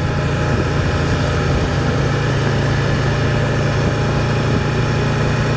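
Can-Am Spyder three-wheel motorcycle engine running at a steady pace while riding.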